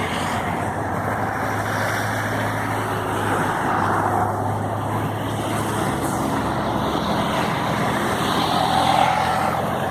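Heavy rainwater floodwater rushing steadily through a culvert under a road, with a low steady hum under it for the first several seconds.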